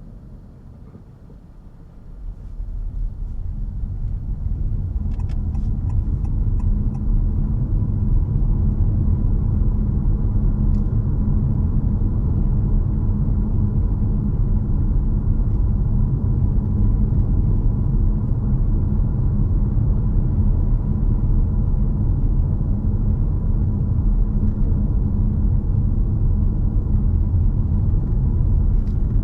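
Inside the cabin of a 2022 Honda HR-V e:HEV hybrid on the move: a steady low rumble of road and running noise, which builds over the first several seconds and then holds. A short run of light ticks about five seconds in.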